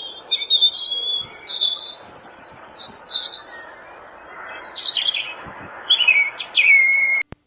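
Birds chirping and singing in quick, overlapping high phrases over a steady background hiss, stopping suddenly near the end.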